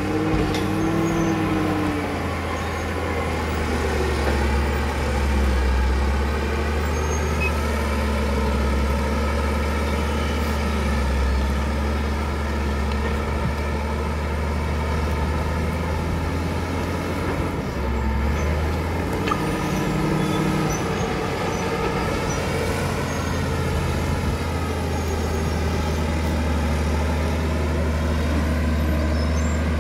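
Caterpillar D7 bulldozer's diesel engine running steadily under work, its pitch rising and falling gently as the load changes. A brief higher squeal comes near the start and again about two-thirds of the way through.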